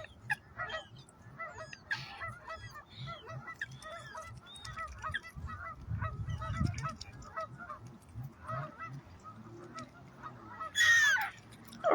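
A flock of geese on a lake calling, many short overlapping honks throughout, with one loud honk near the end.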